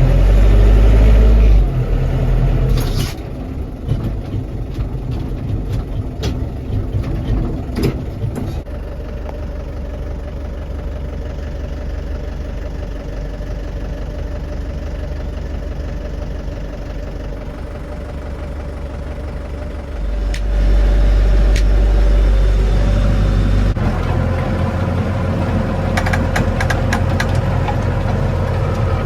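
A 50-horsepower Lovol tractor's diesel engine working, louder and deeper for the first two seconds and again from about 20 to 24 seconds in, with a few sharp knocks along the way.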